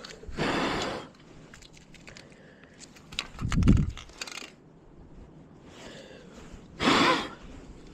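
Masking tape being peeled off a freshly spray-painted motorcycle exhaust: a few short tearing and crackling rasps, with a dull thump about halfway through.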